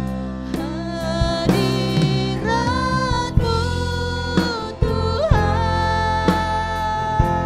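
Live worship band music with a singer holding long notes, one of them bending and wavering about five seconds in, over a steady bass and regular drum kit hits.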